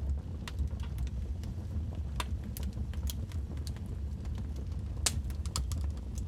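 Logs burning in a fireplace, crackling with irregular sharp pops and snaps over a steady low rumble. The loudest pop comes about five seconds in.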